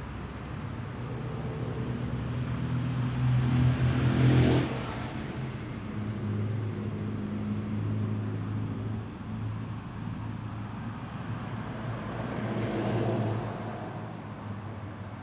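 A motor vehicle engine passing, building to its loudest about four seconds in and then falling away, with a second, softer pass near the end.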